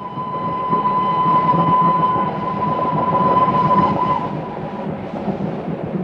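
Train passing: a loud noise of train running that swells up, then dies away near the end. A train horn sounds one long steady note over it until about four seconds in.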